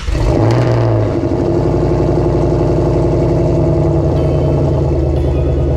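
Whipple-supercharged Ford Mustang V8 idling just after being started. The revs flare briefly in the first second, then it settles into a steady, loud idle.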